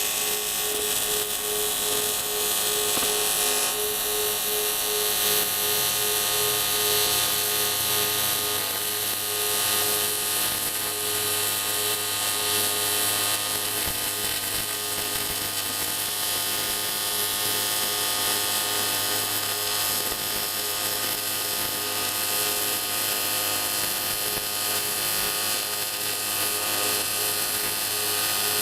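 AC TIG welding arc on cast aluminium, struck suddenly and then buzzing steadily with a hiss while a crack is fused over with filler rod. A low hum joins about eight seconds in.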